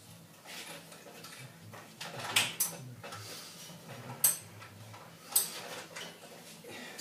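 Metal tools and parts clinking and knocking against a washing machine's metal cabinet during disassembly: light rattling with four sharp clinks, two close together about two and a half seconds in, one a little after four seconds and one after five.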